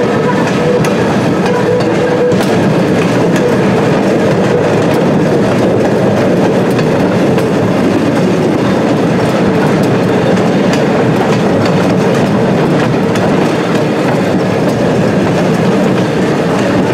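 A short train rolling along jointed track, heard from an open car behind a small locomotive. The running noise of wheels on rail and the engine holds steady, with faint clicks as the wheels pass over rail joints.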